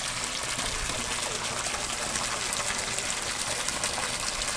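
Water from a sump pump rushing and splashing steadily as the pump drains the crawl space.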